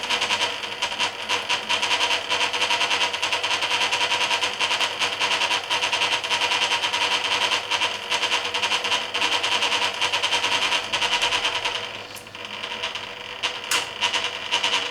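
Hoover Keymatic A3112 washing machine working its load during the dilution-fill stage of a wash: the motor runs with a steady churning of the drum and water. It eases off briefly about twelve seconds in, then picks up again.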